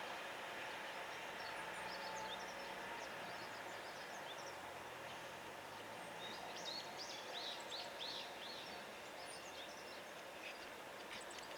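Faint outdoor background with small birds chirping: scattered high chirps, and a run of them close together about six to eight seconds in. A faint low hum dies away in the first half.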